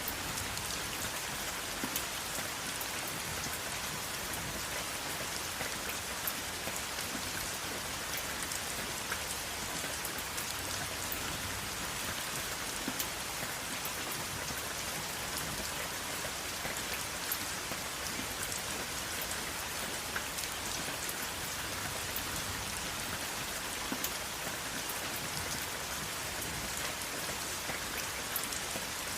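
Steady rain falling on a hard surface, an even hiss with the light patter of individual drops scattered through it, without thunder.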